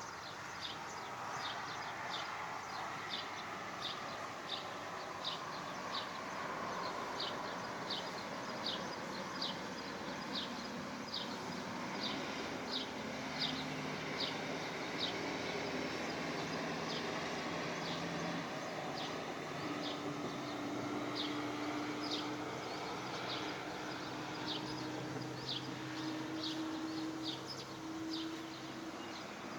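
Outdoor ambience: a short, high chirp repeats evenly, about three every two seconds, over a steady hiss. A low steady hum comes in about halfway through.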